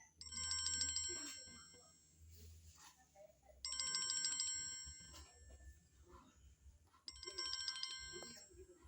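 Mobile phone ringtone: a trilling, bell-like electronic ring repeating three times, each ring just over a second long and about three and a half seconds apart.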